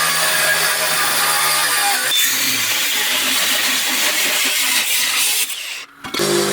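Power tool running and working on metal, a loud dense noise that shifts about two seconds in. Near the end it breaks off abruptly and a steady motor hum starts.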